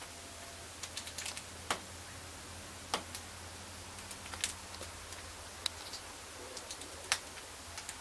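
A bird eating: irregular sharp clicks of its beak as it pecks at food, the loudest about every one to two seconds, over a faint steady low hum.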